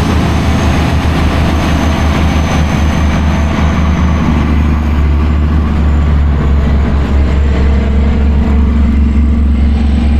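A large vehicle engine running steadily at an even speed, a heavy low drone.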